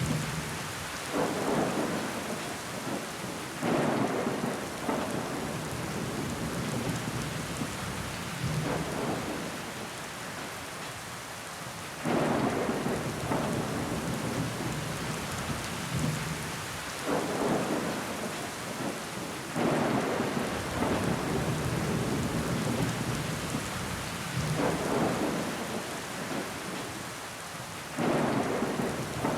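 Steady rain pattering on a window pane, with water running down the glass. About every few seconds a louder, fuller surge lasts for a second or so.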